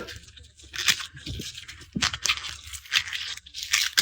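Dry, papery garlic skins crackling and tearing as cloves are peeled, in a run of short, crisp bursts.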